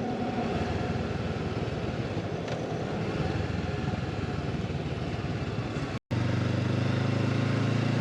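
Motorcycle under way: the rush of wind and road noise, with a steady engine hum that comes forward after a brief dropout about six seconds in.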